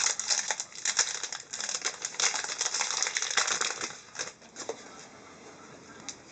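Hockey trading cards being handled: a quick run of rustling, crinkling and small clicks of card stock for about four seconds, then it quiets down.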